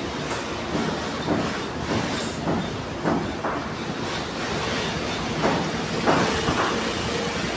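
Industrial sewing machine stitching leather: a steady mechanical clatter with irregular sharper knocks.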